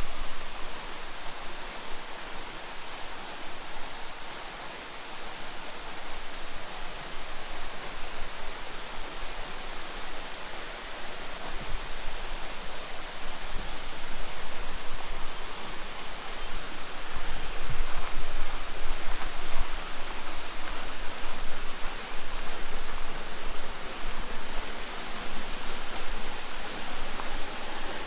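Steady rush of falling and flowing water from a mountain stream and waterfall, a little louder from about halfway through.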